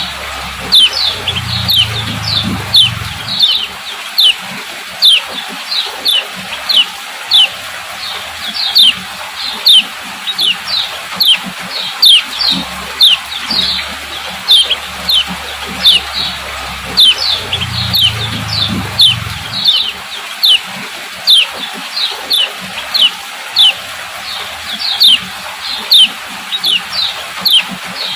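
Female kecial kuning repeating its 'ciak ciak' call: an unbroken string of short, high chirps that each slide downward, about two to three a second. This female call is used to stimulate male kecial to sing.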